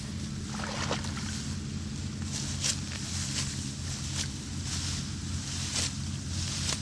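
A small engine running steadily, with a sharp swish repeating about every second from a couple of seconds in.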